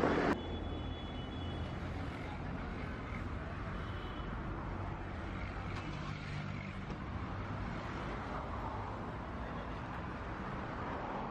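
Steady road-vehicle noise, a low engine hum over an even rumble.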